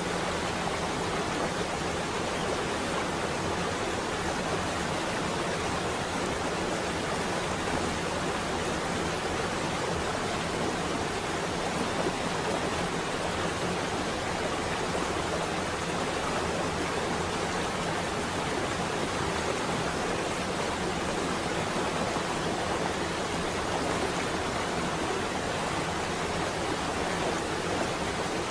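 Rain falling steadily on a window: an even, unbroken hiss.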